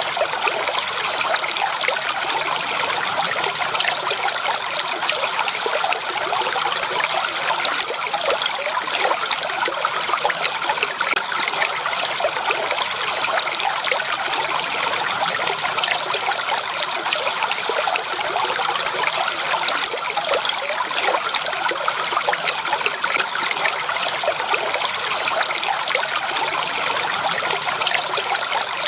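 Natural flowing water trickling steadily.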